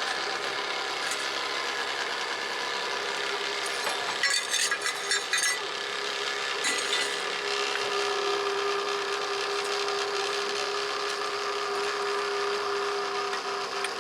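Miniature railway train running on its track: a steady mechanical rumble with several steady tones, and a cluster of clicks and rattles about four to five seconds in.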